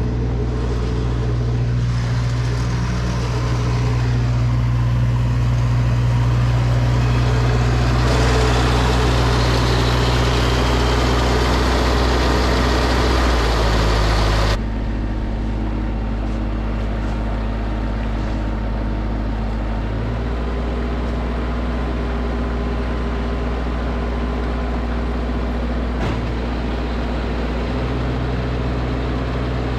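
Tractor engine running steadily while driving a snowblower. A louder rushing noise joins about a quarter of the way in and cuts off suddenly near the middle.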